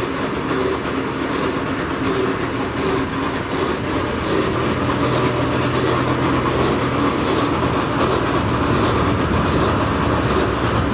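Heavy workshop machinery running steadily with a rattling rumble; a low hum sets in about four seconds in.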